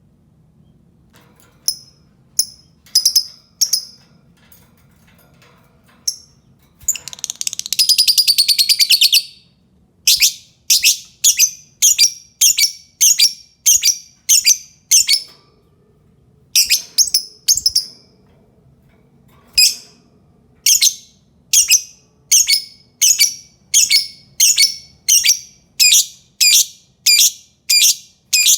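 Lovebird calling: a few sharp, high-pitched chirps, then a fast chattering trill lasting about two seconds, followed by a long run of evenly spaced shrill chirps about once a second, with one short pause.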